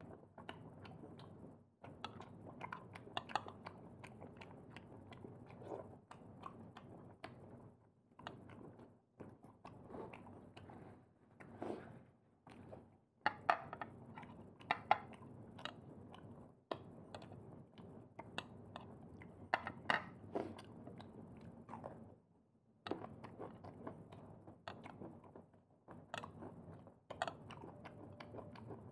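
A person chewing seafood (prawns and clams) close to the microphone, with frequent small clicks throughout.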